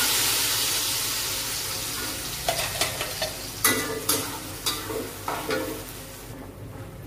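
Freshly blended chili spice paste sizzling loudly in hot oil in a wok, the hiss easing off gradually over several seconds. In the middle come a handful of short knocks and scrapes.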